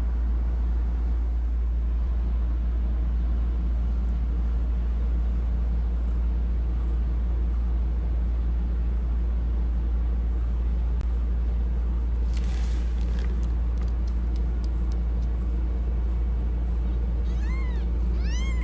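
Newborn kittens mewing with a few short, high, rising-and-falling cries near the end, over a steady low hum. There is a brief rustle about two-thirds of the way through.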